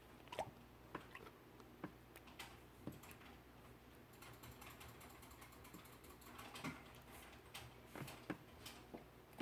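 Slime being pressed and stretched by hand: faint, irregular sticky clicks and small pops.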